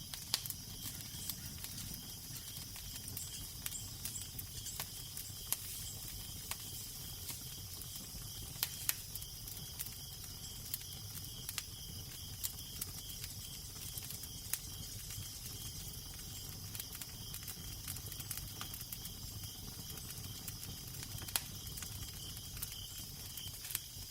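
Fire crackling, with irregular sharp pops and snaps, over a steady low wind rumble and hiss.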